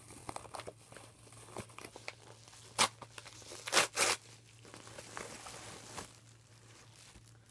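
Packaging being torn open and crinkled by hand: steady small crinkles, with three short, loud rips near the middle.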